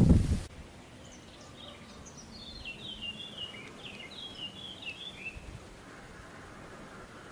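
A gust of wind buffeting the microphone cuts off abruptly about half a second in. Then a small songbird sings a run of quick high chirps and short trills for about four seconds over a faint background.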